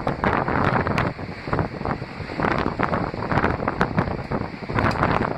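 Wind buffeting the microphone in irregular gusts, a rough rushing noise that swells and drops every second or so.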